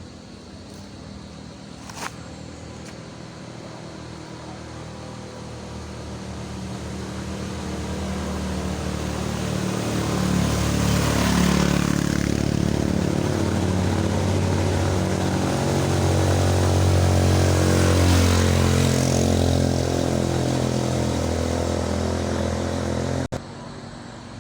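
A motor vehicle's engine climbing a steep hill. It grows steadily louder as it comes close, its pitch rising and falling, and is loudest in the second half. There is a sharp click about two seconds in, and the sound cuts off abruptly near the end.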